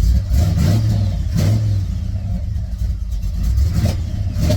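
A 1964 Chevrolet Impala SS's small-block V8 running on fresh spark plugs and wires, blipped a few times so it revs briefly and drops back. Its throttle response is snappy.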